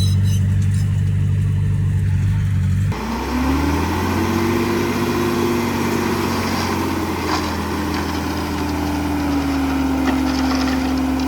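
Diesel engine of heavy construction machinery running steadily. About three seconds in it gives way abruptly to another engine note that revs up and holds, easing down slightly near the end, with a few faint clanks over it.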